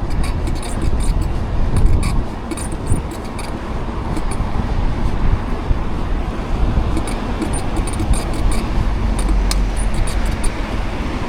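Wind rumbling on the microphone and road traffic during a bicycle ride through city streets, with scattered light rattling clicks.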